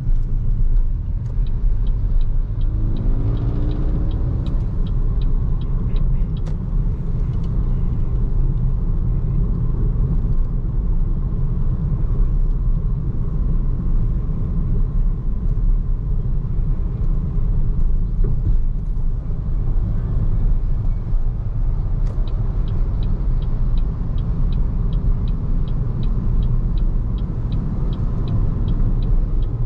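Steady low road and tyre rumble from a BYD Seagull electric car driving in city traffic, with no engine note. A rapid, regular ticking comes in near the start and again in the last third, and a brief rising whine sounds a few seconds in.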